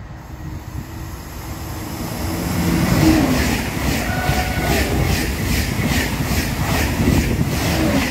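TGV Atlantique high-speed trainset running through at speed: its noise swells as it approaches and stays loud once it is alongside, about three seconds in, with a regular beat about two to three times a second as the cars go by.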